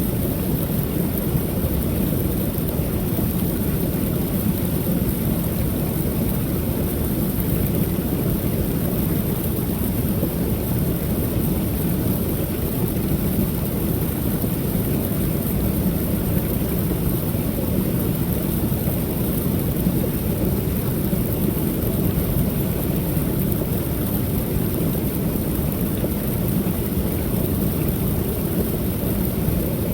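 Creek waterfall pouring steadily: a continuous low rush of falling water that never changes.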